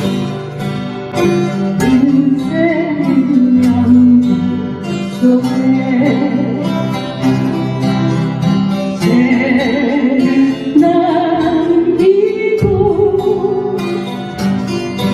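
Acoustic guitar playing a slow song, with a singing voice carrying the melody.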